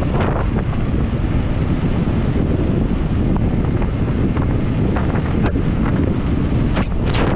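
Heavy wind buffeting the microphone of a mountain biker's action camera while riding at speed, a constant low rumble, with a few scattered clicks and knocks.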